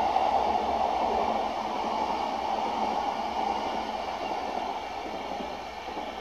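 Electric commuter train of the Keihin-Tohoku Line running past on the tracks and pulling away, its running noise fading steadily until little is left near the end.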